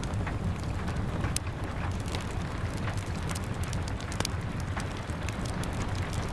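Wood fire crackling with frequent irregular sharp pops, over a steady low rumble of rain.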